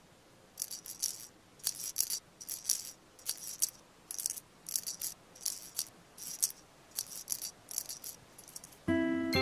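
A shaker rattle played in a steady rhythm, a little more than one shake per second, often as quick pairs. Near the end, music with xylophone-like mallet chords comes in.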